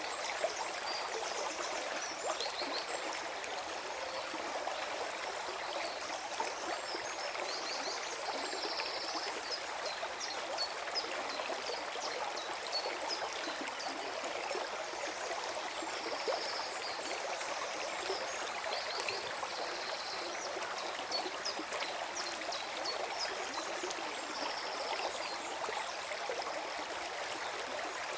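Forest stream flowing and gurgling steadily over stones, with brief faint high-pitched sounds now and then above the rush of water.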